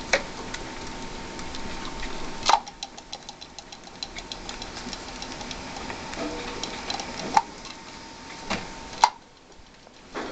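Pet rats moving about their cage, making runs of quick dry clicks, with sharp knocks about two and a half, seven and a half and nine seconds in.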